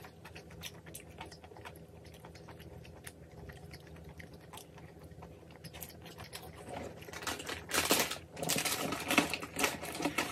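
Close-up chewing and wet mouth sounds of someone eating chewy spicy stir-fried webfoot octopus and beef tripe with rice. It is faint with small clicks at first, then louder and denser from about seven seconds in.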